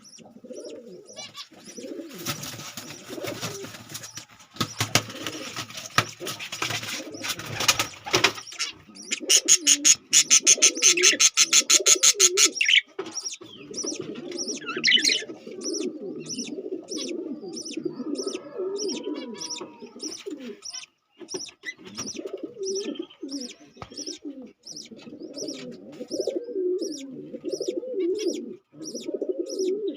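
Small pet parrots calling: a continuous low warbling chatter, with a run of loud, rapid high chirps about ten seconds in and steady repeated high chirps about twice a second in the second half.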